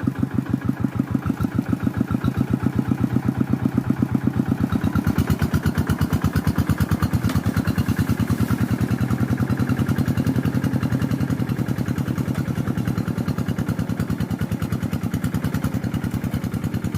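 Engine running at a slow, steady speed with an even pulsing beat, about six beats a second, getting a little fuller about five seconds in.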